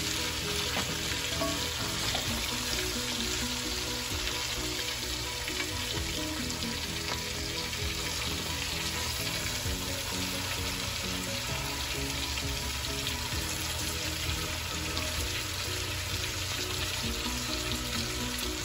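Seasoned chicken pieces sizzling steadily as they sear in hot oil in a pot, being turned over with tongs now and then. The searing only browns the outside to a light crust.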